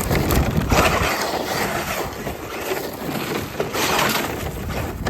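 Traxxas RC monster truck driving over rough, brushy ground, its tyres and chassis making a rough crunching and rattling noise that rises and falls, loudest near the start and again about four seconds in.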